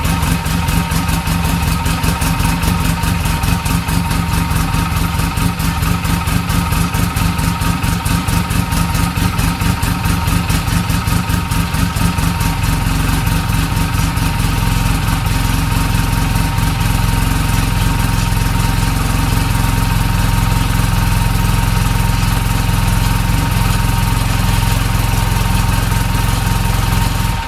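Polaris RZR 800's twin-cylinder four-stroke engine idling steadily through its stock exhaust, with a fast, even pulse; a little under halfway through the low rumble smooths out as the idle settles. It stops abruptly at the end.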